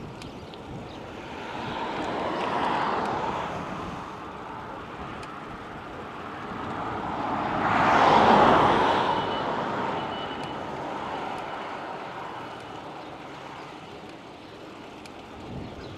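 Two cars passing by, each a swell of tyre and engine noise that rises and fades away. The second, about eight seconds in, comes closer and is the louder.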